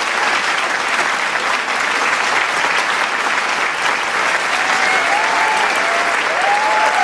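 Large crowd applauding steadily in dense clapping. Individual voices cheer and call out over it in the last couple of seconds.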